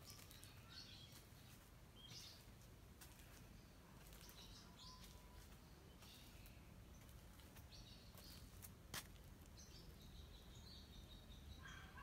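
Near silence: faint, scattered bird chirps over a low steady hum, with one sharp click about nine seconds in.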